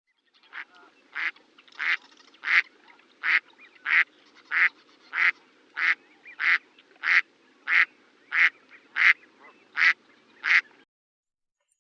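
A duck quacking in a long, even series of short quacks, about one and a half a second, that stops near the end.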